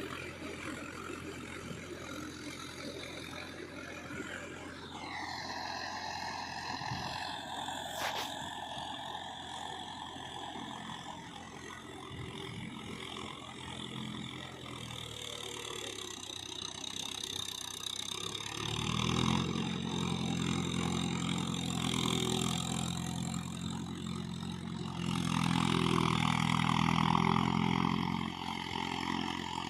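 Mahindra Yuvo 415 tractor's diesel engine running under work. A high whine falls in pitch about five seconds in and then holds steady. The engine note grows louder and heavier about two-thirds of the way through and again near the end.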